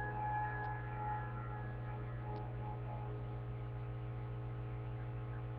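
Steady low electrical hum, with the last held notes of a piece fading out over the first couple of seconds.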